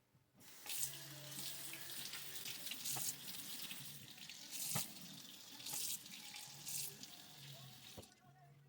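Kitchen tap running as oranges are rinsed under it, with a few louder splashes and knocks as the fruit is handled. The water starts about half a second in and stops shortly before the end.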